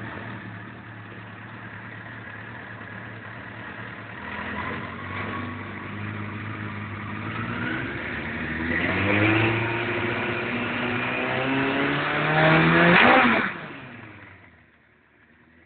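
Suzuki GSX-R1100W inline-four motorcycle engine running, its revs climbing in steps with the pitch rising to a loudest point near the end, then dropping away sharply and fading.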